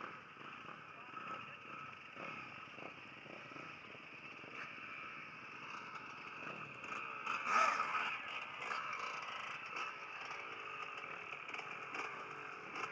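Faint, distant motocross bikes' engines running around the track, swelling briefly about halfway through.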